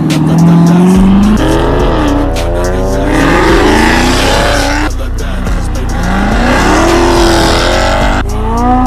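Car engine revving hard as the car pulls away, its pitch climbing through the revs and dropping sharply at shifts, with tyre squeal. Background music with a steady bass underneath.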